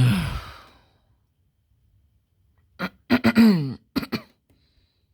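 A person coughing: one hard cough right at the start, then a short run of coughs and throat clearing about three seconds in.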